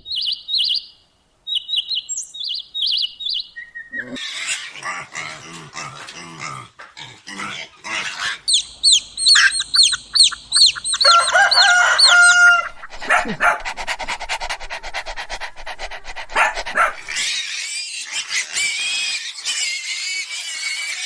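A run of animal and bird calls one after another: short high chirps, then harsher clicky calls, then a quick series of repeated falling chirps, then rapid even clicking, and a wavering chattering call near the end.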